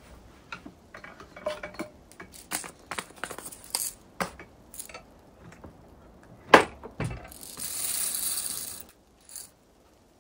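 Irregular crunching clicks and knocks of footsteps breaking through a crust of ice and snow, with one sharp loud crack about six and a half seconds in, then a short steady hiss lasting a second or so.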